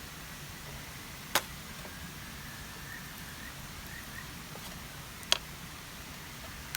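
Steady rush of a mountain stream, with two sharp clicks about four seconds apart.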